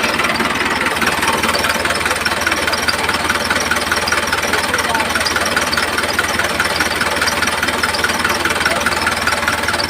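A small DC motor running steadily, with a fast, even rattle.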